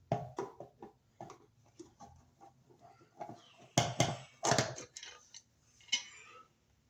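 Irregular clicks, knocks and short scrapes of a screwdriver and a plastic wall receptacle being handled as an old outlet is unscrewed and pulled out of its box, with the loudest clatter about four to five seconds in.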